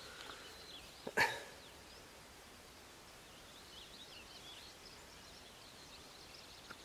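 Faint wild birds chirping and trilling over quiet open-air ambience, with a short sharp sound about a second in.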